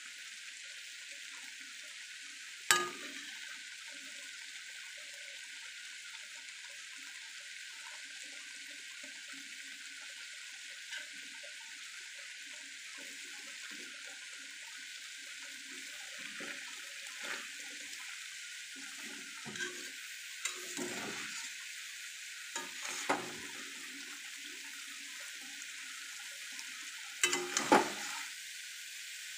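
Paneer cubes frying in oil in a kadai: a steady sizzle. A spatula scrapes and knocks against the pan several times, once sharply about three seconds in and in a louder cluster near the end.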